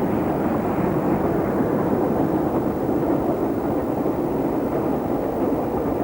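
Great Western Castle-class steam locomotive working a train on the main line: a steady rumble of the engine and coaches running.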